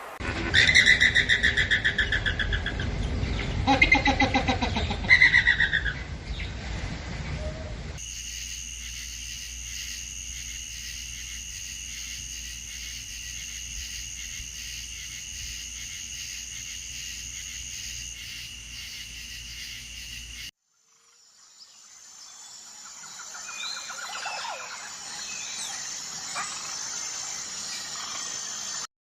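Loud, repeated farm-animal calls with a pulsing, bleating or honking quality for about eight seconds, then a steady faint hum, and after a sudden cut, birds chirping faintly.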